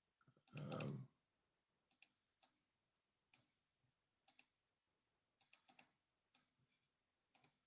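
Faint, scattered light clicks of cardboard wargame counters being picked up and set down on the map, some in quick pairs and a cluster of four around the middle, after a brief soft murmur near the start.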